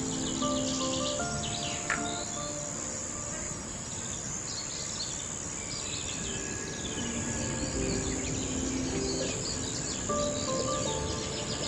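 Rainforest ambience: a steady high-pitched insect drone with many short bird chirps and calls, under soft background music of long held notes.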